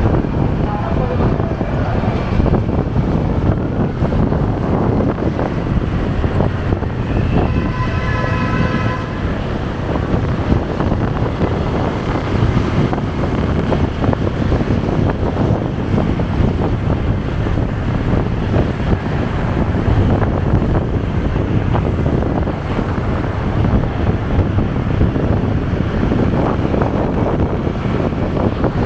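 Wind buffeting the microphone over steady road and traffic noise from a motorcycle riding in city traffic. A vehicle horn sounds once for about two seconds, roughly eight seconds in.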